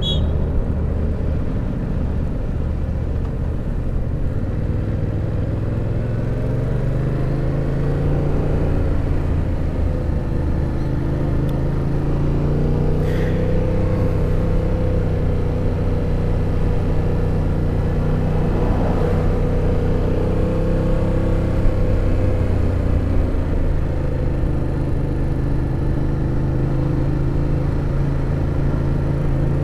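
Yamaha FZ-07's parallel-twin engine running under way. It climbs in pitch a few seconds in, holds steady, and eases back down near the end.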